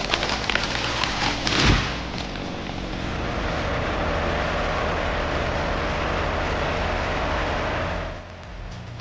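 Heavy machine engine running steadily with a high whine, after a few knocks and a thud in the first two seconds.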